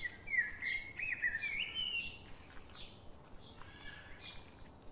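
A bird chirping with wavy, whistled notes in the first two seconds, over soft wet squelching from hands mixing raw chicken pieces into a spice-and-mustard-oil marinade.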